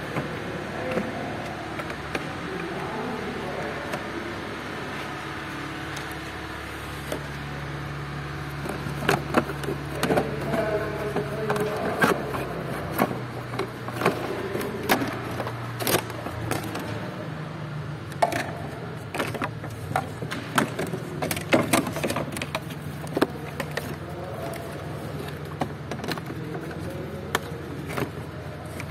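Hands and tools working loose the plastic cowl panels and fasteners under a car's windscreen: irregular sharp clicks, knocks and rattles, coming thicker from about a third of the way in, over a steady low hum.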